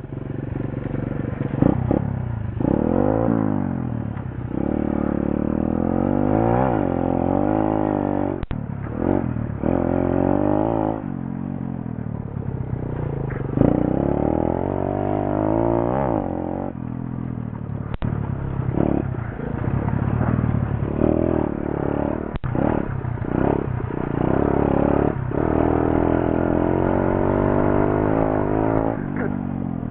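Pit bike engine revving as it is ridden, its pitch climbing in repeated runs and dropping back, as with shifting up through the gears. A few sharp clicks cut through it.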